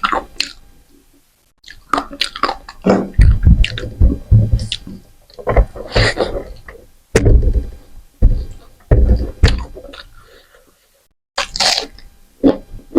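Close-miked eating sounds: chewing and mouth noises in irregular bursts, with brief pauses between mouthfuls of rice, dal and chicken.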